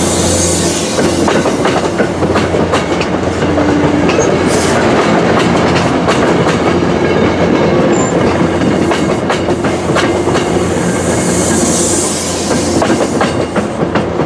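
MBTA bi-level commuter coaches rolling past close by, their wheels clicking over the rail joints in an irregular clickety-clack, over a steady low hum.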